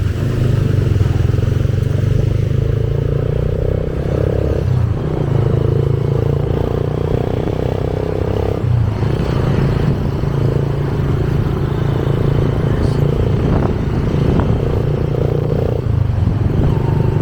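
Motorcycle engine running steadily while riding along a road. The engine note drops out briefly three times, about 5, 9 and 16 seconds in, as if the throttle is eased for a gear change.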